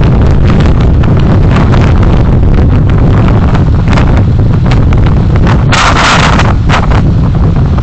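Heavy wind buffeting on the microphone over the steady low rumble of a moving road vehicle, with a brief loud hiss about six seconds in.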